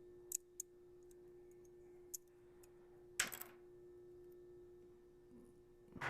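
Light clicks and taps of hard plastic 3D-printed safety razor parts being handled and fitted together, with a louder clatter about three seconds in and another near the end. A faint steady hum underneath.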